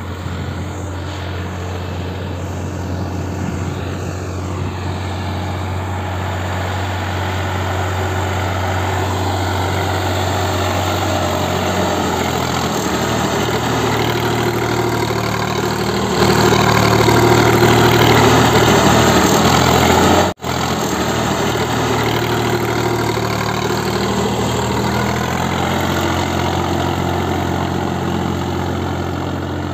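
Diesel engine of a Sonalika 50 hp four-wheel-drive tractor running as it works in mud, slowly growing louder and running louder for a few seconds a little past halfway. About two-thirds of the way in the sound breaks off for a split second, then carries on.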